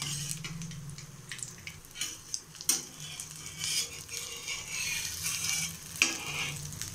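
Vegetable cutlets sizzling in shallow oil on a flat tawa, while a metal spatula scrapes under them and clicks against the pan as they are flipped. There are a few sharp clicks among the steady sizzle.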